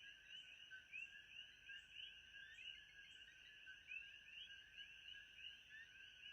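Faint nature ambience: a dense, continuous chorus of short chirping animal calls, with a steady high tone above it.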